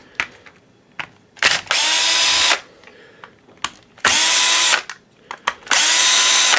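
Cordless drill/driver with a T10 Torx bit spinning in three short runs, each starting with a quick rising whine that settles into a steady hum, backing screws out of a plastic tool housing. Small clicks and knocks come between the runs.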